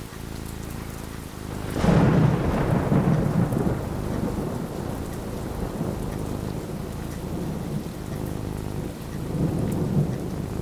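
Thunder cracks about two seconds in and rumbles on for a couple of seconds over steady falling rain. A softer roll of thunder comes near the end.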